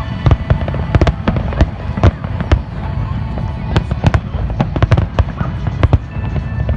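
Fireworks exploding in a rapid, irregular barrage of sharp bangs over a continuous low rumble.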